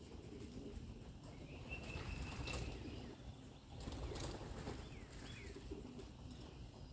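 Pigeons' wings flapping faintly, in two short flurries about two and four seconds in, with a few short bird chirps.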